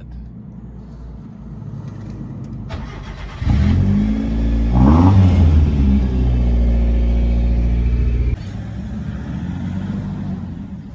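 Nissan B13 Sentra's SR20 four-cylinder engine on a cold start. It catches about three and a half seconds in, revs up briefly and settles into a steady fast cold idle. About eight seconds in the sound drops suddenly to a quieter steady running.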